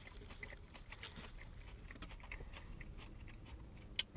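A person chewing a mouthful of lettuce and red onion salad: faint, irregular soft crunching, with one sharp click near the end.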